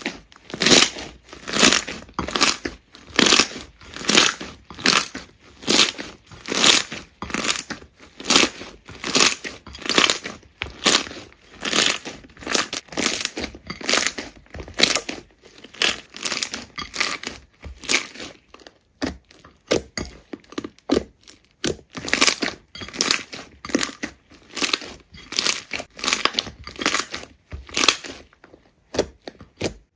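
Hands pressing and squeezing a big slime over and over, about one and a half squishes a second, breaking off briefly near the end.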